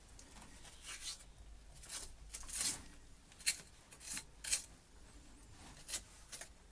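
A hand tool scraping back soft lime mortar pointing between arch stones, in short, irregular scraping strokes, about seven of them.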